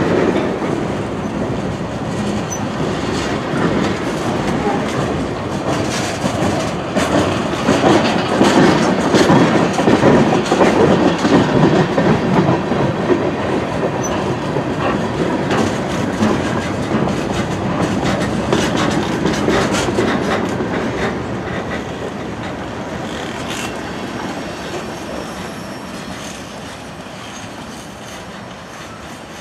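Freight train cars rolling past, with wheels clicking over rail joints and some wheel squeal. It is loudest a third of the way in and fades away over the last third.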